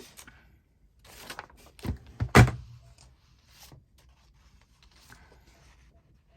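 Paper being handled on a work table: short rustles, then two knocks about two seconds in, the second one loud with a dull thud, followed by faint rustling.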